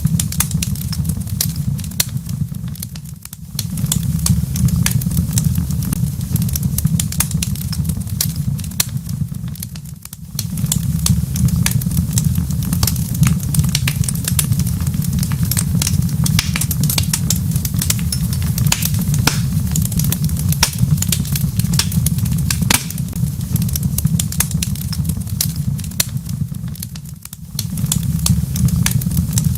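Wood fire crackling in a fireplace, a dense run of sharp pops and snaps over a steady low rumble. The rumble fades briefly three times, a few seconds in, about ten seconds in and near the end.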